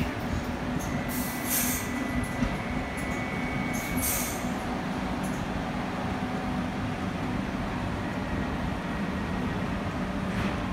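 Docklands Light Railway train running alongside the platform: a steady low rumble and hum of wheels on rail, with a faint high wheel squeal in the first few seconds and a few short high hisses.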